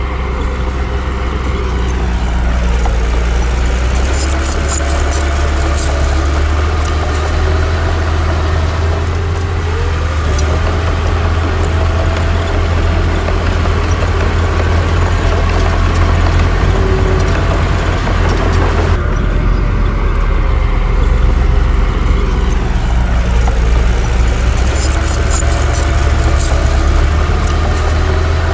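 Diesel engines of heavy earthmoving machinery running steadily: a deep engine drone with shifting, gliding whines above it and scattered clicks, the sound changing suddenly about two-thirds of the way through.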